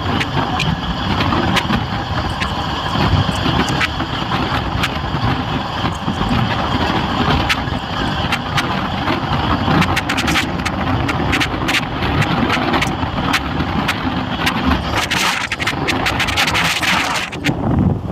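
Indian Railways train running along the track: a steady rumble with many irregular sharp clicks and rattles, and a burst of hiss about fifteen seconds in that lasts a couple of seconds.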